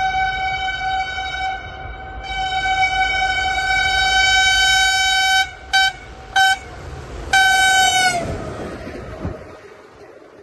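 Train horn sounding at speed: a long steady blast, two short toots, then another long blast whose pitch drops near its end as the train passes. The rumble of the passing train then fades away.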